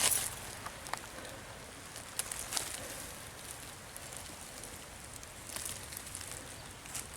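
Faint scattered crackles and rustles of leaf litter and rotten wood being disturbed, over a steady low hiss.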